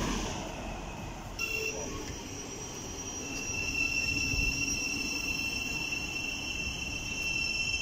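A Grand Central train's rushing noise fades as its last car goes by and it runs off. From about a second and a half in, a steady high-pitched rail squeal holds, growing stronger about three seconds in.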